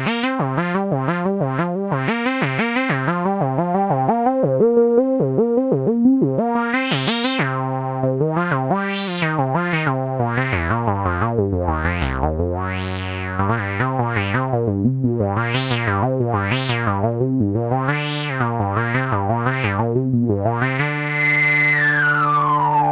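Behringer K-2, an analog monophonic synthesizer cloned from the MS-20, playing a run of notes. Each note has a filter envelope that opens and closes it. The notes are quick and staccato at first, then slower. Near the end a held note has its resonant filter sweeping downward.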